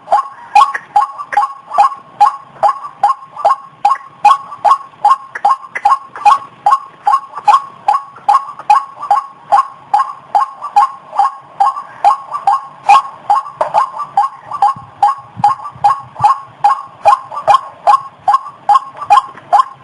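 White-breasted waterhen calling, one call repeated steadily about two and a half times a second without a break.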